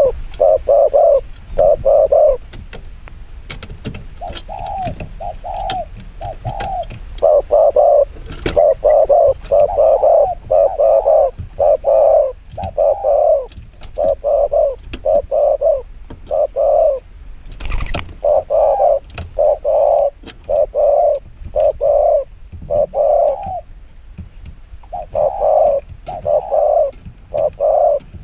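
A cu gáy dove cooing rapidly: runs of short coos, one after another, broken by brief pauses. This is the fast 'chiêu gù' call used to lure wild doves. A few faint sharp clicks sound behind it.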